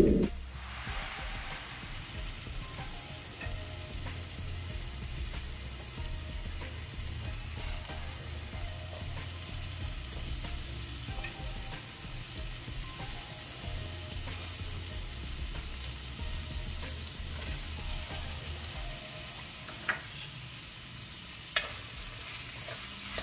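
Masala and chopped vegetables sizzling steadily in oil in a kadai on a low flame, with two sharp clicks near the end.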